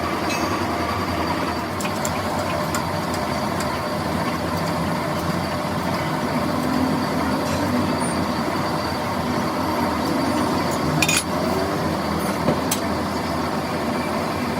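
Workshop machine running steadily, with a few sharp metallic clinks about eleven and twelve and a half seconds in.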